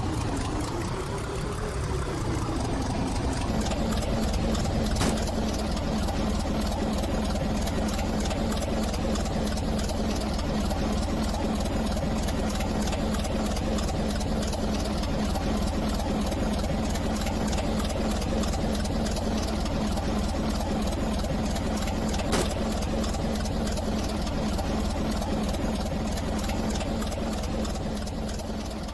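Steady rumble and hum of a moving train. In the first few seconds the hum rises and falls in pitch, then holds steady. Two brief clicks come about five seconds in and again past twenty seconds, and the sound fades near the end.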